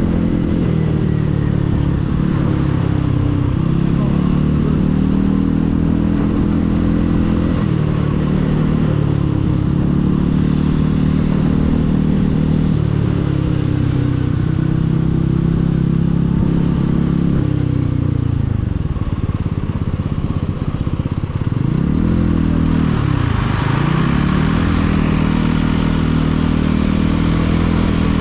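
Motorcycle engine running under way, its revs rising and falling with the throttle; in the second half the revs drop sharply and climb again twice in quick succession, and a rushing noise grows louder near the end.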